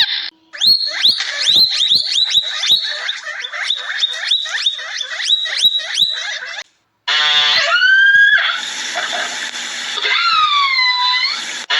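Animal calls: a quick run of short, high chirps that each drop in pitch, about three a second. After a brief pause comes a different, longer pitched call that rises and later swoops down and back up.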